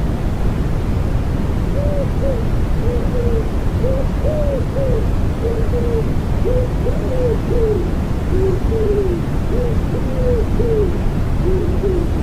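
Common wood pigeon cooing: a run of short, soft coos in repeated phrases, starting about two seconds in and carrying on to the end. Under it lies a steady, deep white-noise hiss.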